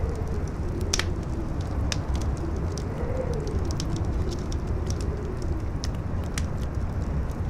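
Howling wind: a wavering tone that rises and falls in pitch over a steady low rumble. A campfire crackles through it in scattered sharp pops.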